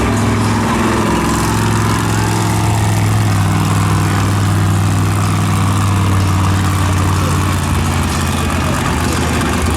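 Monster truck engine idling steadily, a low, even drone with no revving.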